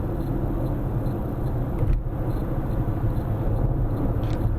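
Car driving at highway speed: steady low rumble of road and tyre noise.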